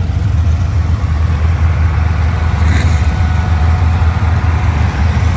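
Race vehicle engines idling with a steady, loud low rumble while staging for a sand drag run.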